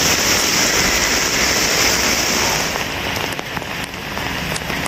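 Heavy rain falling, a steady hiss of rain on surfaces that eases a little about three seconds in.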